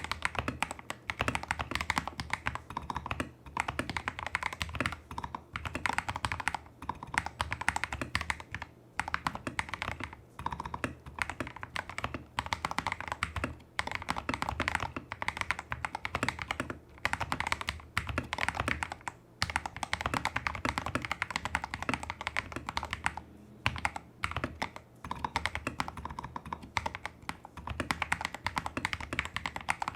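Steady typing on a Tester68 custom mechanical keyboard with lubed AliExpress Holy Panda tactile switches and XDA-profile keycaps, on a taped PCB with modded stabilizers. Quick runs of keystrokes, broken by short pauses every few seconds.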